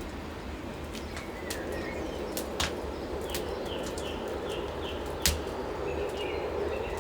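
Steady rain ambience with a small bird chirping in short runs of quick notes, and a few sharp clicks, the loudest about two and a half and five seconds in.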